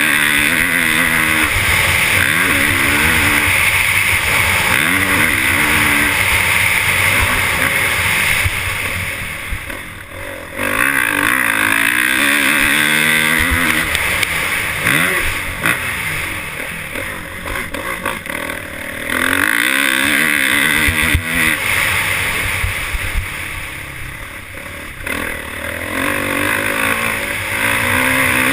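Motocross bike engines racing, repeatedly revving up and down as the bikes pass, with brief lulls about ten, twenty and twenty-four seconds in.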